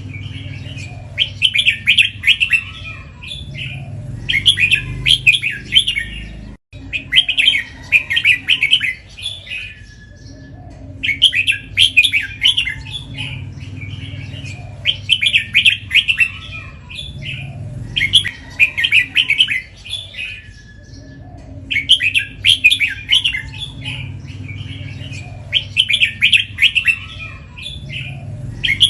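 Red-whiskered bulbul singing, repeating short bubbling phrases about every two seconds, with a couple of brief pauses. A steady low hum runs underneath.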